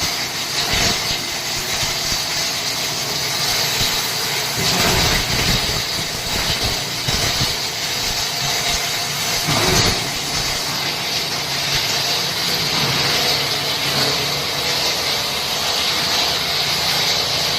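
Plastic scrap grinder running: a steady mechanical whir with a hiss, broken by irregular, rougher stretches about five and ten seconds in.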